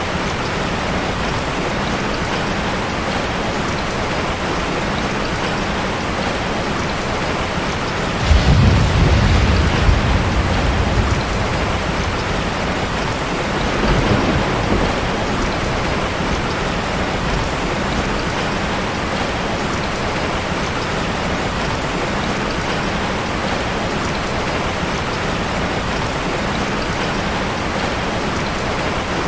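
Heavy rain falling steadily. About eight seconds in, a low rumble of thunder starts suddenly and lasts about three seconds, with a weaker rumble around fourteen seconds.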